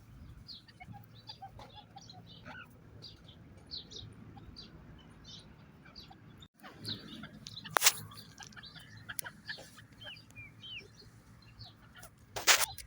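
Francolin (teetar partridge) calling: short, faint high chirps scattered throughout, then a louder harsh call near the end. A single sharp click sounds about eight seconds in.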